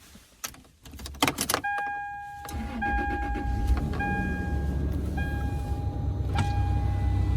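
A few clicks, then a Toyota truck's engine starts about two and a half seconds in and settles into a steady idle through its newly replaced exhaust. A dashboard warning chime beeps about once a second over it.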